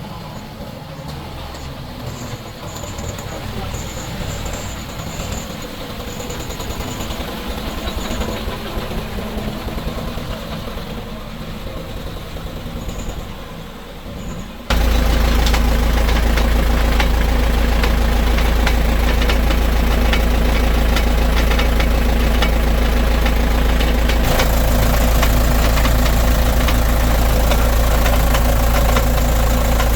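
Heavy truck engine running at idle. About halfway through the sound switches abruptly to a louder, steady low drone.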